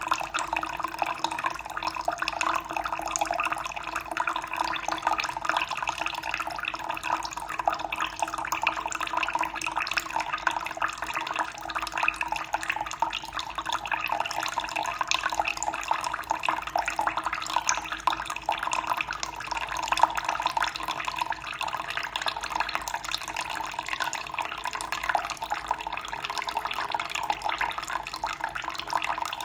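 Running water splashing and trickling steadily, with many small drips and splashes.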